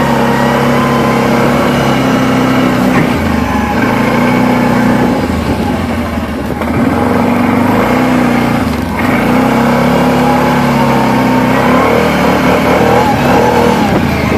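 Quad bike (ATV) engine running loud under throttle, the revs rising and falling as it drifts, easing off briefly about six and nine seconds in.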